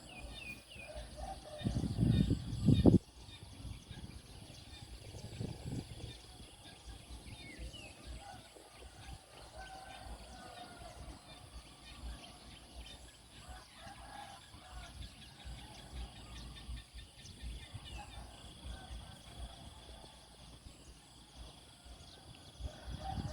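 Morning bird chorus: several birds chirping and calling in short notes and glides, over a steady high hiss. Loud low rumbles about two seconds in and again around five seconds, like wind or handling on the microphone.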